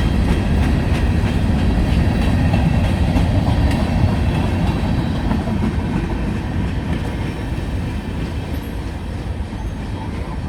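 CSX freight train's railcars rolling past, wheels clicking over rail joints over a steady heavy rumble that slowly grows quieter in the second half.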